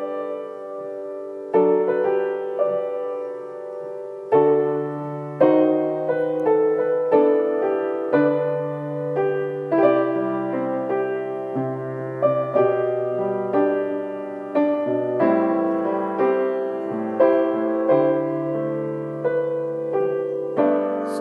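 Slow, gentle solo piano instrumental: soft chords and a melody, with notes struck about once a second and left to ring and fade.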